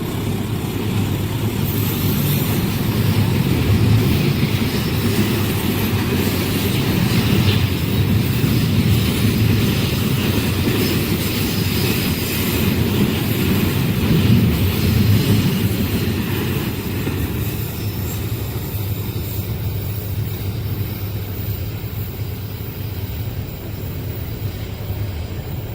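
Train passing at speed, wheels and cars rumbling steadily on the rails; the rumble eases off over the last ten seconds as the train moves away.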